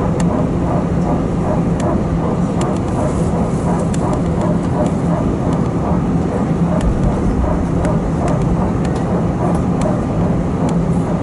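Steady hum of an Airbus A320 cabin on the ground after landing, with scattered sharp clicks and a low murmur of passengers' voices.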